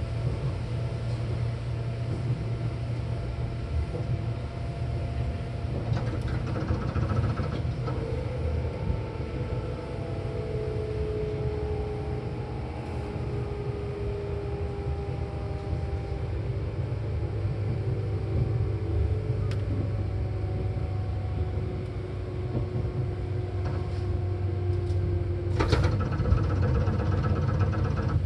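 Seibu 4000 series electric train running, heard inside the car: a steady low rumble with a faint whine that slowly falls in pitch. A short, sharp noise comes near the end.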